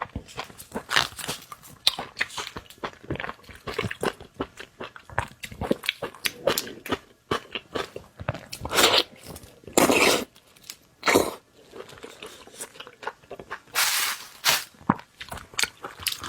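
Close-miked ASMR eating of shrimp: wet chewing and biting with crunches. A dense run of small clicks is broken by several louder crunches in the second half.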